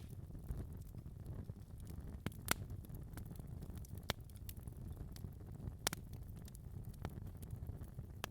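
Fire crackling in a fireplace: a steady low rumble of the flames with scattered sharp pops, the loudest about two and a half seconds in and again near six seconds.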